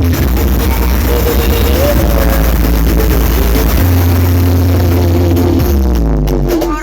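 Loud electronic dance music with a heavy, sustained bass, played through the Blizzard Audio rental sound system during a sound check. A pitched melody runs over the bass, and a falling tone comes about five seconds in.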